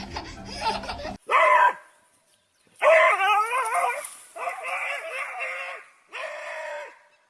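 A dog giving four drawn-out, howl-like calls, each wavering up and down in pitch; the longest lasts over a second. Before them, about a second in, a burst of other noise cuts off abruptly.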